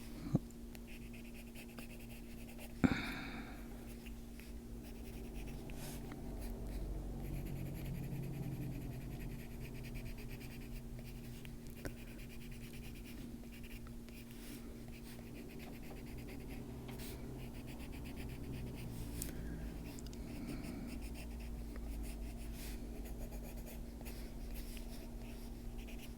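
Coloured pencil scratching on paper in many short strokes, with two sharp knocks in the first three seconds and a steady low hum underneath.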